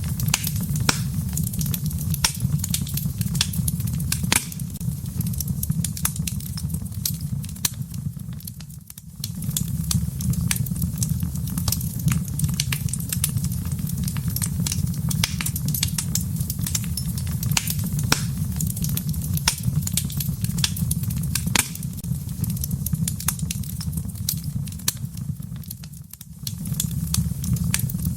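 Wood fire burning in a fireplace: a steady low rumble of flames with frequent sharp crackles and pops. The rumble dips briefly twice, about nine seconds in and near the end.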